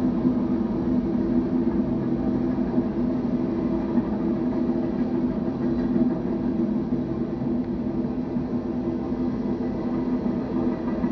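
BNSF intermodal freight train passing, a steady drone with a constant hum over a low rumble.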